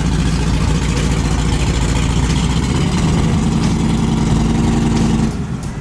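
A vehicle engine idling, low and steady; the sound shifts about three seconds in and cuts off suddenly near the end.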